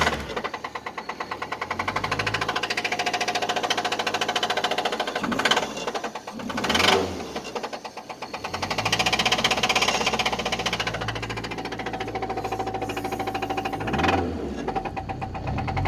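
1999 Nissan Altima's 2.4-litre four-cylinder engine running with a fast, steady knock from a bad connecting-rod bearing, revved briefly several times.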